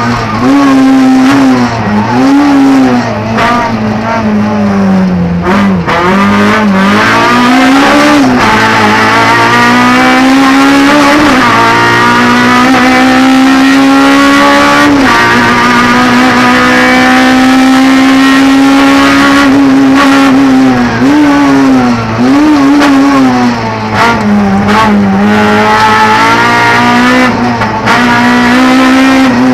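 Honda Civic Type R's four-cylinder engine at full race effort, heard from inside the cabin: revs climb and drop sharply again and again with gear changes and corners. In the middle the engine holds steady high revs for several seconds.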